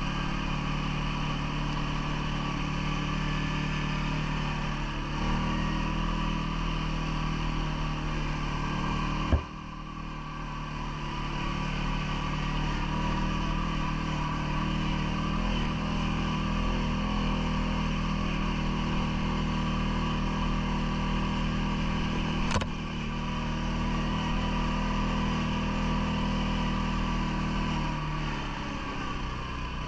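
CFMoto ATV engine running at a steady pace. The engine note steps up about five seconds in and drops off near the end. Two sharp knocks come through, one just before ten seconds and one about twenty-two seconds in.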